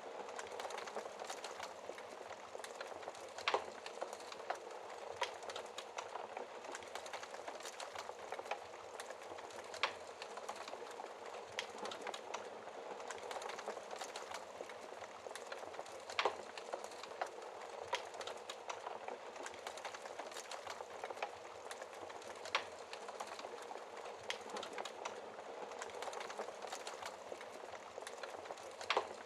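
Wood fire crackling in a fireplace: a steady soft hiss with constant small ticks and a louder sharp pop roughly every six seconds.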